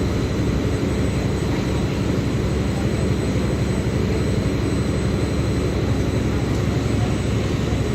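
Mercedes-Benz OF-1724L city bus diesel engine running steadily, a continuous low rumble with an even level and a faint constant high whine above it.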